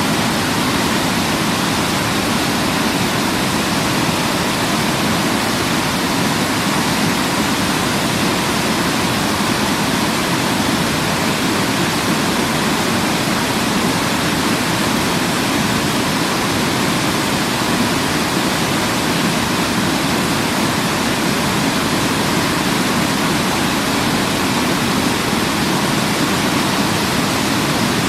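Waterfall rushing in a steady, unbroken roar of falling water, with no change in level.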